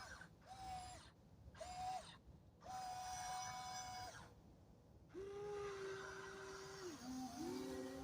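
Small electric drive motors of a Double E radio-controlled track-type tractor whining in short on-off spurts as the controls are worked. A higher whine comes on and off three times, then a lower, longer one about five seconds in that dips briefly in pitch near the end.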